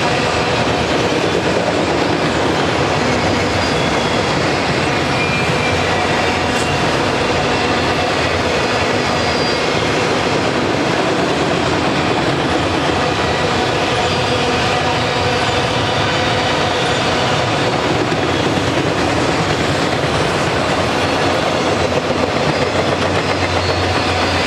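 Auto-rack freight cars rolling past at close range: a steady rumble of steel wheels on rail with clickety-clack over the rail joints. Faint high wheel squeals come and go.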